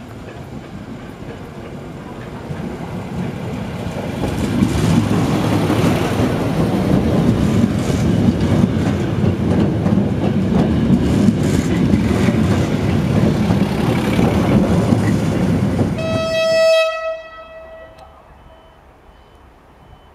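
Diesel multiple unit passing close by: the rumble of the train builds over the first few seconds and stays loud, with wheels clacking over rail joints. Near the end a short horn toot sounds and the train noise cuts off abruptly, leaving a quiet background.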